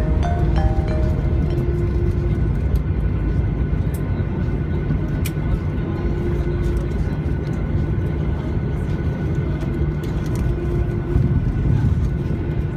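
Steady low rumble inside a Boeing 737-800's cabin on the ground just after landing, with a faint on-and-off hum and a few light clicks. Background music trails off about a second in.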